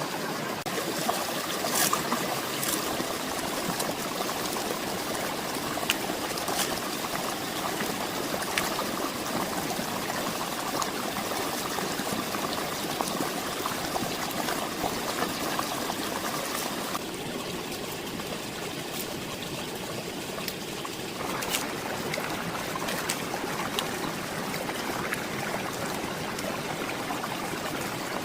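Running water trickling and flowing steadily, like a small stream, with a few light clicks now and then.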